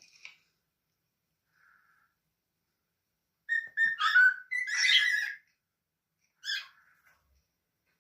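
Pet parrot calling: a burst of whistled notes and harsh calls starting about three and a half seconds in and lasting about two seconds, then one short call about six and a half seconds in.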